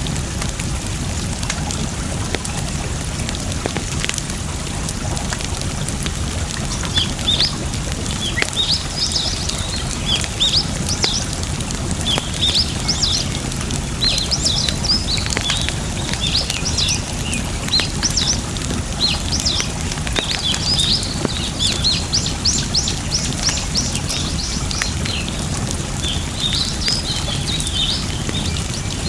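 Campfire crackling over a steady rush of water, with small birds chirping over and over from about seven seconds in.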